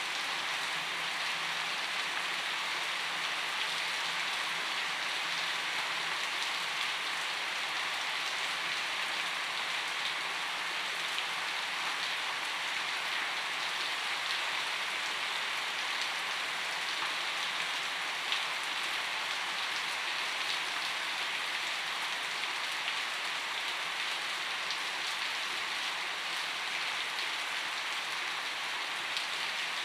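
Steady gentle rainfall: an even hiss of rain with scattered individual drop ticks, unchanging throughout.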